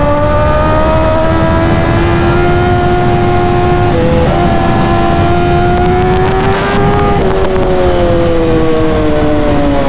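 Kawasaki ZX-10R inline-four superbike with an SC Project exhaust running hard at high revs, its pitch climbing slowly with a brief hitch about four seconds in. After about seven seconds the pitch falls away.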